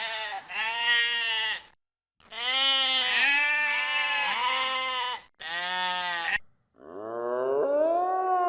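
Bleating livestock: a run of wavering, pitched bleats separated by short pauses, with one long call in the middle. Near the end a long call starts and rises in pitch.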